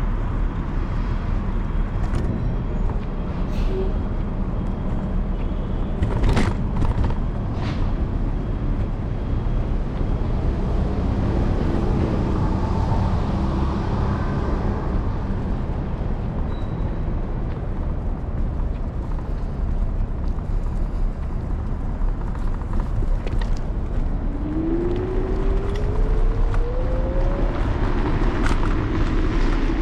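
City street traffic and wind rumble heard from a moving electric scooter, with a few sharp clicks about six to eight seconds in and a slowly rising whine near the end.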